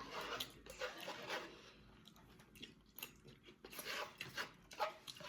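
A person chewing and biting a mouthful of taco meat close to the microphone, with irregular short mouth sounds.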